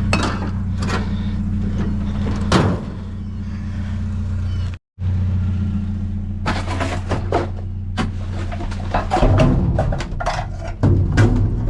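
Pickup truck engine idling steadily, with scattered clicks and knocks over it that come thickest in the second half.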